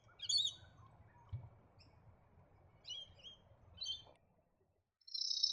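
Australasian grebe calling: a few short, high chirps, then a long, rapid, high-pitched chittering trill starting near the end.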